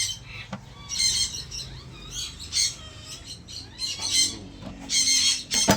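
A flock of caged birds, cockatiels among them, calling: harsh screeching squawks every second or so, with thinner whistled chirps in between.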